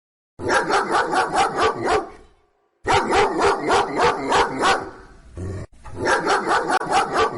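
A dog barking rapidly in three bursts of about eight quick barks each, roughly five barks a second, with short pauses between the bursts.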